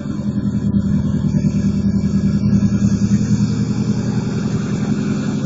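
2007 Subaru Impreza WRX STi's turbocharged flat-four engine idling steadily from cold, with an even low rumble.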